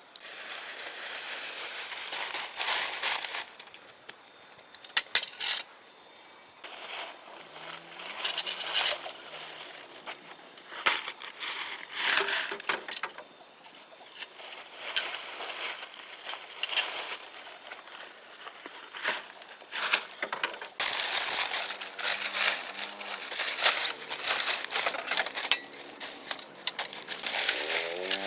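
Irregular crunching and scraping noises, like handling of wood or brush, in uneven bursts.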